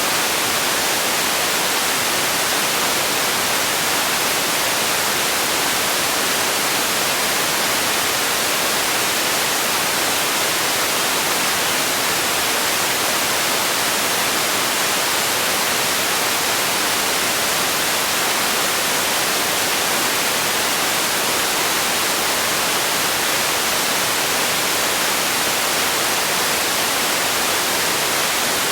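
Steady white noise: an even, unchanging hiss, brighter in the treble, with no variation.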